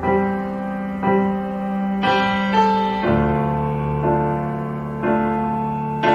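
Slow, gentle piano music: notes struck about once a second over held chords, with the bass note changing about three seconds in.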